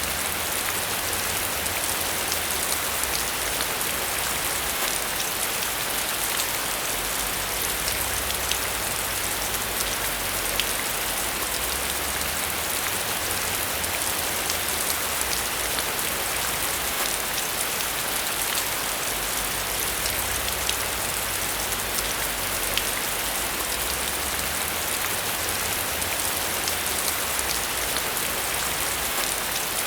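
Steady rain falling on a surface: a dense even hiss with many small drop ticks and a faint low rumble underneath.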